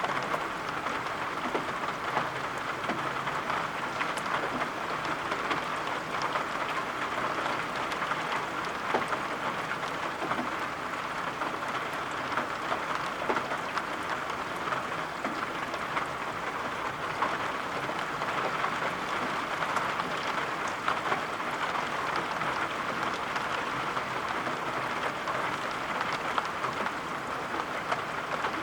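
Steady rain falling, an even patter with scattered sharper drop taps.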